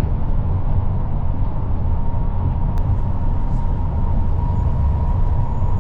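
Steady low rumble of a moving vehicle's engine and road noise, with a faint steady whine above it and a single small click about three seconds in.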